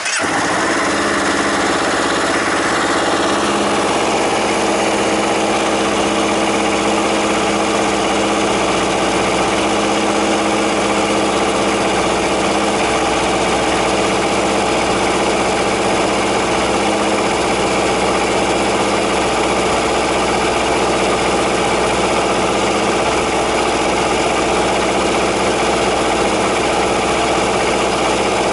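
Honda CBR250RR (MC51) parallel-twin engine catching on the starter and idling through a full aftermarket exhaust. The revs are high for the first few seconds, then settle into a steady idle.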